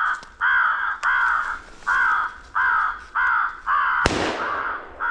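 A steady run of crow caws, evenly spaced about every half second to second, cut across about four seconds in by a single shotgun blast that rings out and fades.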